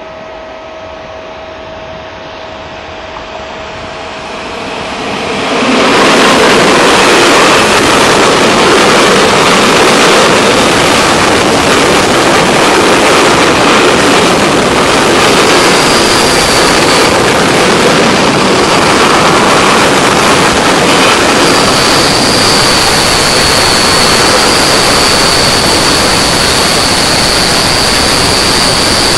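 Freight train hauled by an FS E655 electric locomotive, first approaching with a faint steady whine, then passing close by from about six seconds in: a loud, steady rumble of wheels and container wagons. A high, steady squeal joins in briefly midway and again through the last part.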